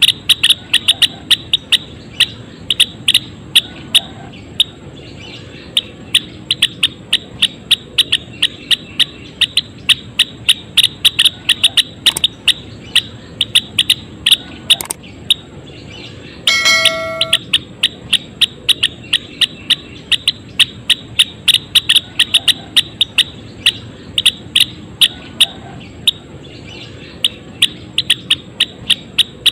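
Cinereous tit (gelatik wingko) calling in a fast, steady run of sharp chips. Just past halfway, a short held note with a clear tone breaks in briefly.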